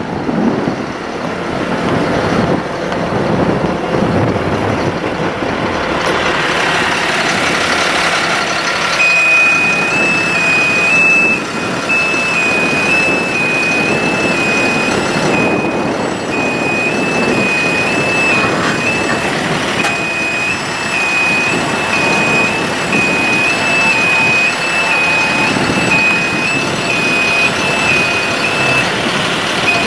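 Forestry bucket truck's engine running steadily. About nine seconds in, a high electronic warning beeper starts, stepping back and forth between two close pitches, and keeps on until near the end.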